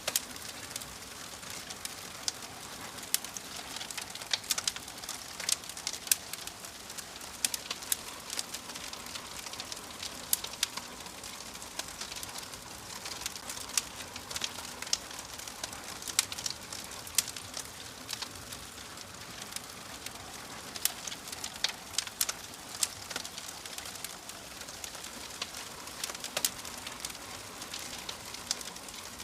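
Wood fire in a fireplace burning with a steady hiss and frequent sharp, irregular crackles and pops.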